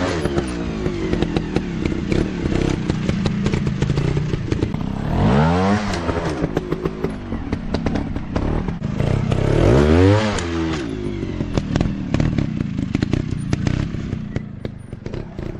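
Dirt bike engine revving, its pitch climbing and dropping back in three surges about five seconds apart, with scattered clattering and knocking over rough ground.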